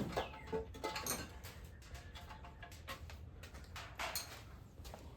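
Faint, scattered clicks and taps of hand tools working on an engine, a box wrench on the intake bolts, over a low steady room hum.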